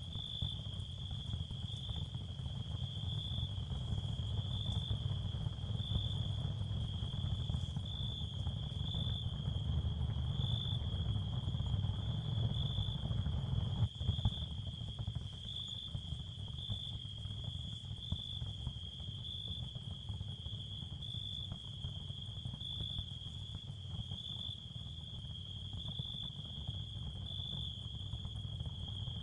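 Ambient nature soundscape of crickets chirping in a steady, high, evenly pulsing trill over a low rumbling background, with a single click about halfway through.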